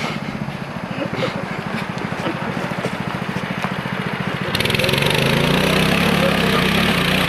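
Mini bike's small engine running with a fast, even putter, then revving up about four and a half seconds in and holding at higher revs to the end.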